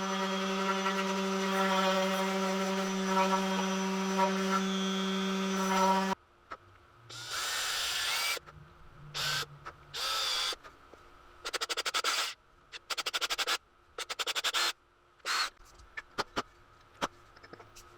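A small power tool's motor running with a steady hum for about six seconds, then cutting off. Short separate bursts of workshop noise follow, some of them fast clicking.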